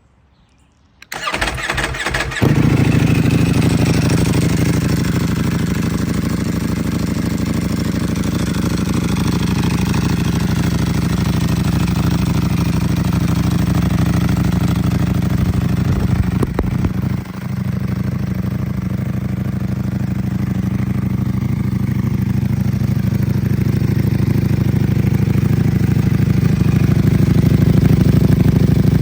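Ducati Panigale V4 SP2's V4 engine with an Austin Racing exhaust starting up: the starter cranks about a second in, the engine catches around two and a half seconds in and settles into a steady warm idle. There is one short throttle blip just past halfway, and the dry clutch's rattle can be heard over the exhaust.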